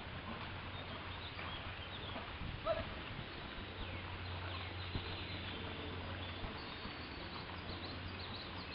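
Birds chirping over a steady outdoor background noise, with one short, louder note a little under three seconds in.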